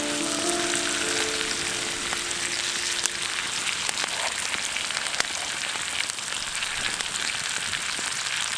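Food frying in a pan over a campfire: a steady, dense sizzle full of fine crackles.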